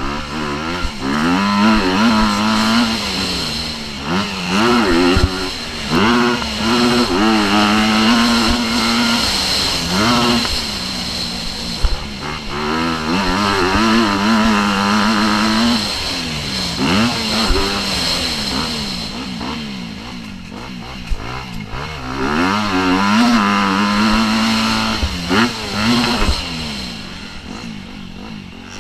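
Motocross bike engine revving hard and easing off again and again. Its pitch climbs and drops as the throttle opens and shuts through the gears, with a few sharp knocks.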